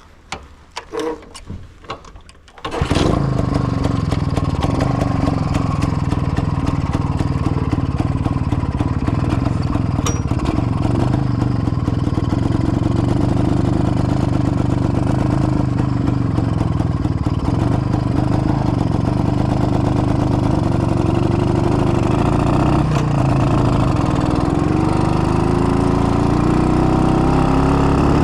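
Izh-49 motorcycle's freshly rebuilt single-cylinder two-stroke engine being started: a few knocks, then it catches about three seconds in and runs steadily, revving up a little near the end.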